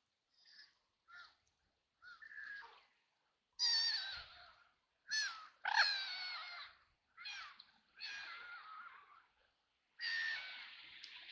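Ducks quacking: a run of soft, short quacks, then louder, harsh quacks from a few seconds in. A rush of splashing water starts near the end.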